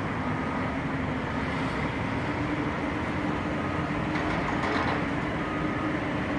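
Heavy construction machinery running steadily, with a faint reversing alarm beeping about once a second and a brief clatter about four to five seconds in.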